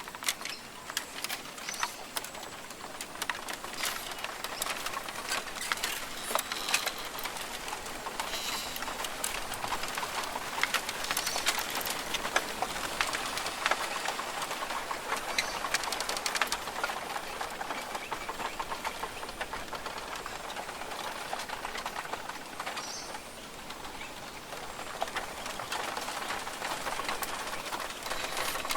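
Rainforest ambience: birds calling in short chirps over a steady hiss and a dense, irregular patter of sharp clicks.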